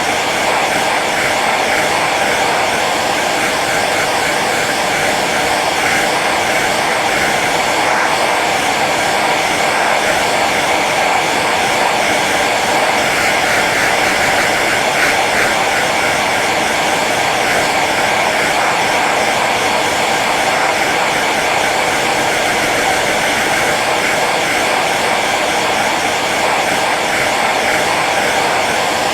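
Hair dryer running steadily on its low setting: an even, unbroken rush of blown air with a motor hum.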